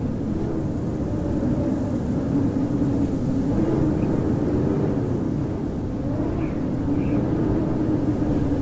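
Howling blizzard wind: a steady low rush with a moaning tone that slowly wavers up and down in pitch.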